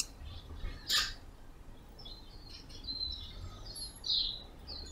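Birds chirping, short high calls from about halfway through, over a faint steady low rumble. A brief hiss about a second in is the loudest moment.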